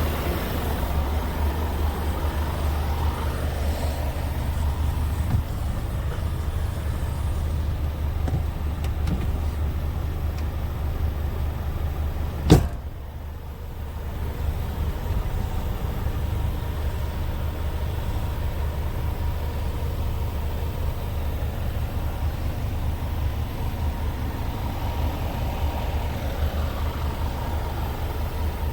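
Scania P320 tractor unit's diesel engine idling steadily, a low even hum. About twelve and a half seconds in there is a single sharp bang, like a cab door shutting, and the sound is briefly quieter afterwards.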